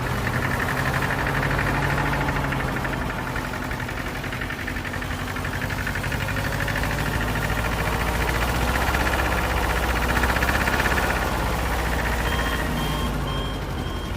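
Small motor of a DIY mini tractor running steadily with a fast, fine rattle. A repeating electronic beep starts near the end.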